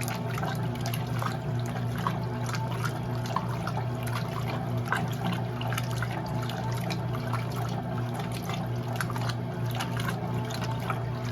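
Water splashing and trickling in the tub of an Electrolux LE06DBD top-load automatic washing machine, over a steady low hum.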